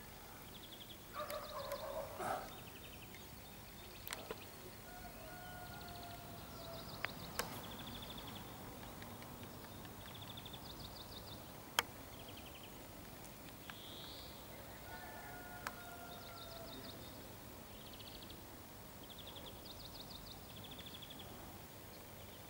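Faint outdoor ambience: a small bird repeats a short, high, rapid trill every second or two, with two drawn-out, slightly falling distant tones and a few sharp clicks. A brief louder burst of noise comes about a second in.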